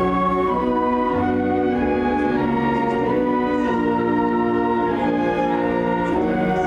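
A school instrumental ensemble playing live: held, sustained chords that shift every second or so, at a steady level.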